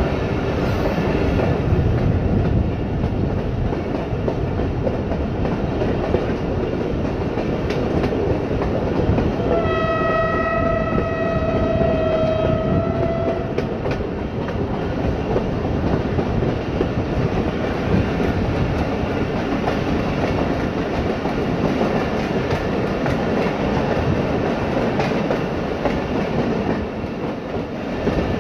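Train running along the rails, heard from inside a carriage at an open window: a steady rumble of wheels on track. About a third of the way in, a train horn sounds one long note for about four seconds.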